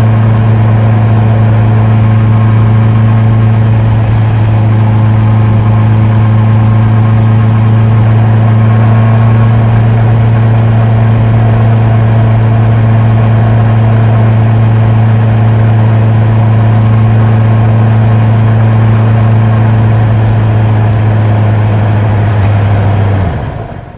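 Honda CB650R's inline-four engine and exhaust running at a steady, unchanging speed, then falling in pitch and dying away near the end as it is shut off.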